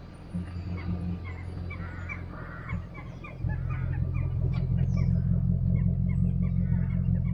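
Jaguar XK8's V8 running through an Adamesh Stage 2 exhaust on the move, a low rumble heard from inside the car that grows clearly louder about three and a half seconds in as the throttle opens. Birds chirp repeatedly over it.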